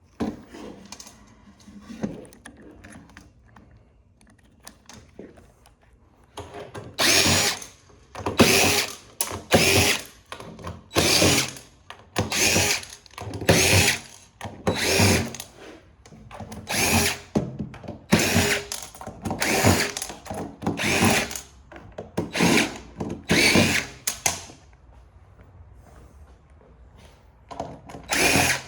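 Power drill run in a dozen or so short trigger bursts, about one every second and a bit. It stops for a couple of seconds near the end, then starts again.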